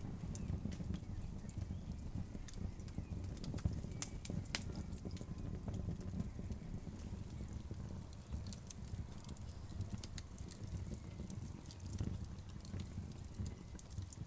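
Wood fire crackling: burning logs give off sharp, irregular pops and snaps, several a second, over a low, steady rumble.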